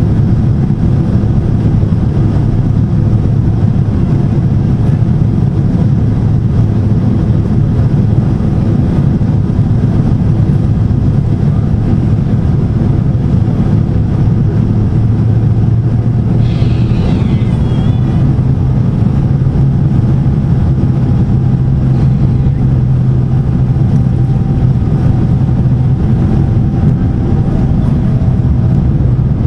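Steady roar of Boeing 767 jet engines and airflow heard from inside the passenger cabin. The low engine hum shifts a little in pitch about halfway through, and a brief high warbling sound comes just after.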